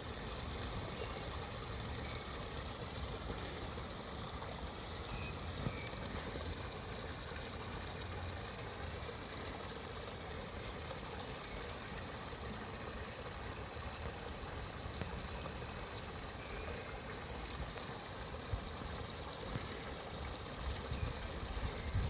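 Steady outdoor rushing noise, with a few faint short bird chirps here and there.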